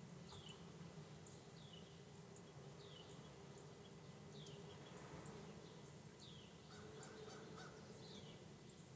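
Faint bird calling: a short, high, falling note repeated every second or two, over a low steady hum.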